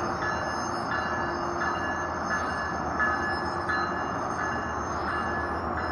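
Metrolink commuter train rolling slowly along the station tracks, a steady rumble of the cars. A high ringing tone repeats about every 0.7 seconds throughout.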